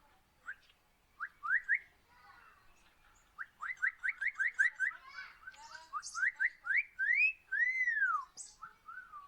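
A bird singing clear whistled notes: a few short rising notes, then a quick run of them about halfway through, and a longer rising-and-falling whistle near the end.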